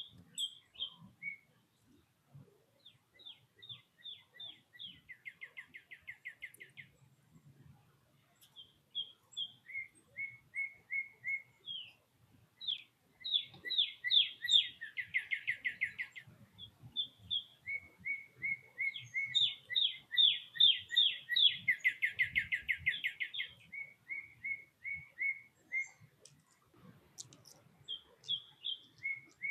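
A songbird singing loud, clear whistled phrases: runs of slurred notes falling in pitch that speed up into fast trills, repeated several times with short pauses.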